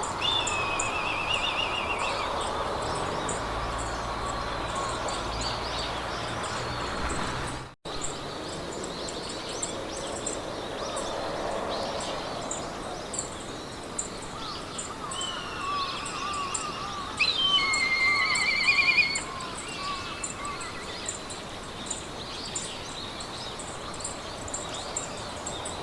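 Meadow ambience: songbirds singing short trills and warbles, loudest a couple of seconds past the middle. Behind them run a soft steady wind haze and a row of short high chirps repeating about twice a second. The sound cuts out completely for an instant about eight seconds in.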